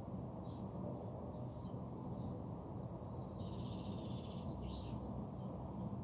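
Small songbirds chirping, with a fast trill about two seconds in that steps down in pitch halfway through, then a few short chirps, over a steady low background rumble.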